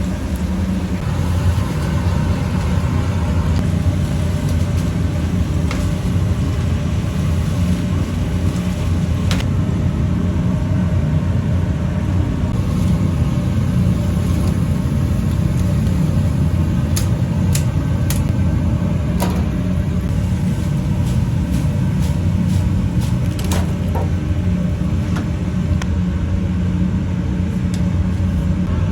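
A steady, loud, low rumble, like machinery running, with a few sharp clicks scattered through the second half.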